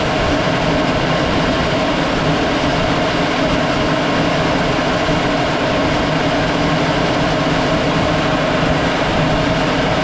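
Aircraft cockpit noise in flight: the steady drone of the engine mixed with rushing air, holding a constant pitch with a few fixed tones over the noise.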